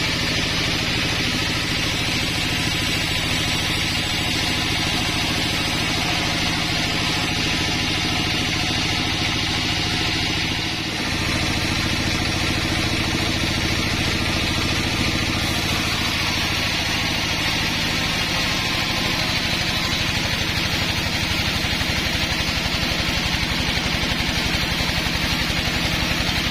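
Sawmill's engine running steadily, with a brief dip about eleven seconds in before it settles back to the same steady sound.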